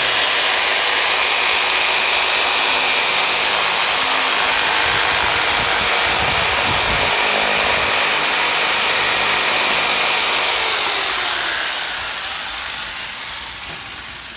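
Electric motor running steadily with a loud rushing hiss, then switched off about eleven seconds in and winding down, its pitch falling over a few seconds.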